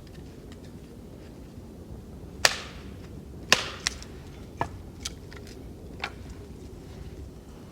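Sharp blows on wood: about six irregular strikes, the two loudest about two and a half and three and a half seconds in, the rest weaker.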